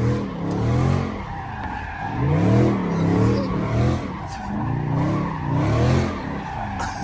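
Car engine revving hard, its pitch rising and falling over and over, with tyres squealing and skidding in a wheelspin stunt.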